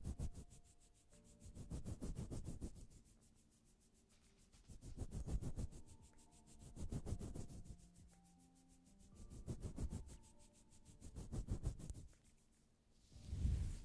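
Rhythmic rubbing or scraping strokes, about one every two seconds, each a rough swell of fine scratchy noise.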